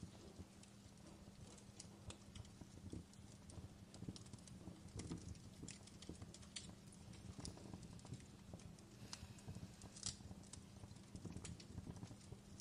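Faint fireplace crackling: irregular sharp pops and snaps over a low steady hum, with the loudest pop about ten seconds in.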